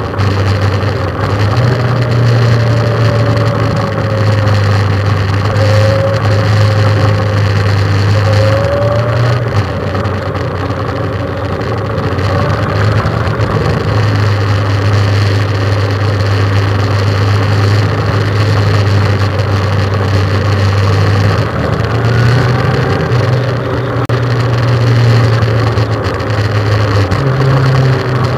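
Motorcycle engine running steadily at road speed, heard from on board, its note stepping up and down a few times as the throttle and gears change, over a rush of wind and road noise.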